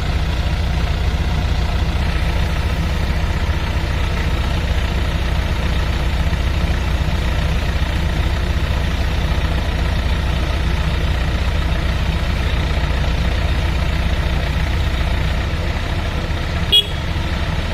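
Heavy diesel engine of a construction machine running steadily with a low drone. A single sharp click sounds about a second before the end.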